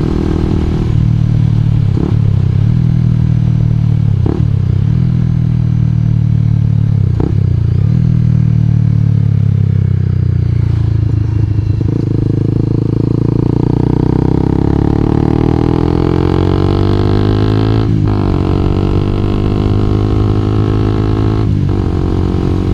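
2012 Honda CBR250R's single-cylinder engine pulling under way, with three quick breaks in the engine note in the first eight seconds like gear changes. Later the revs rise and fall, with two more brief breaks near the end.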